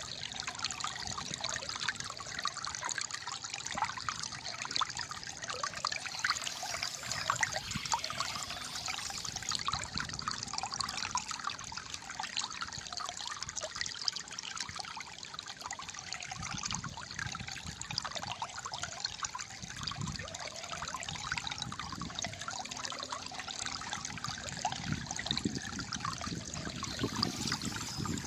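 Calm stream gurgling and trickling steadily, a dense bubbling patter of flowing water.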